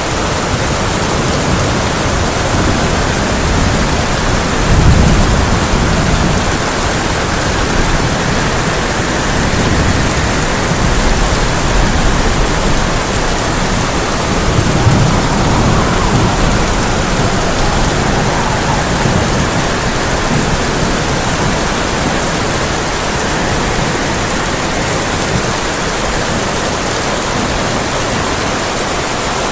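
Heavy rain pouring steadily on a tin roof, with low rumbles of thunder swelling about 5 seconds in and again about 15 seconds in.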